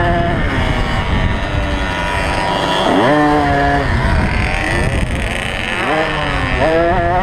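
Small two-stroke motocross bike engine revving hard, its pitch sweeping up sharply about three seconds in and again near the end as the throttle is opened, with other bike engines running underneath.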